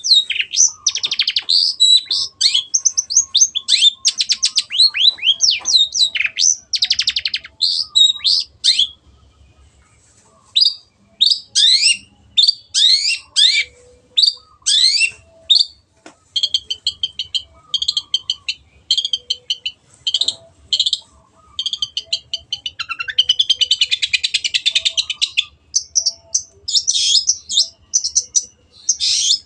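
Long-tailed shrike singing a fast, varied song: rapid chattering runs of sharp, high, sweeping notes, a brief pause about nine seconds in, and a harsh scratchy rasp about two-thirds of the way through.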